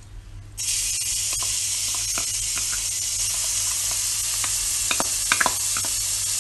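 Ginger-garlic paste and chopped green chilies sizzling in hot olive oil in a stainless steel pan. The steady hiss starts suddenly about half a second in, and a metal spoon clinks a few times against the bowl and pan near the end.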